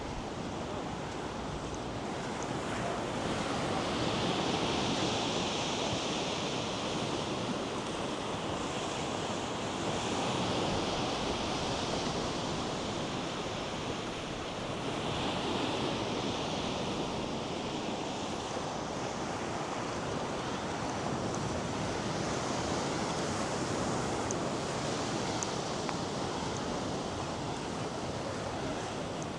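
North Sea surf breaking and washing on a sandy beach, a steady rush that swells every few seconds as waves come in, with some wind on the microphone.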